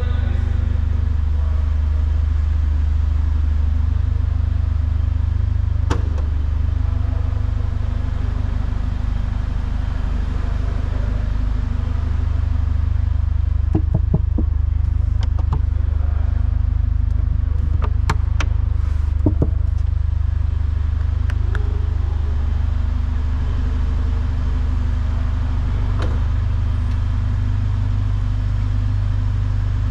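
Mercedes-AMG GLA 45's 2.0-litre turbocharged four-cylinder idling with a steady low hum. Scattered sharp clicks and knocks come through, most of them bunched about halfway through.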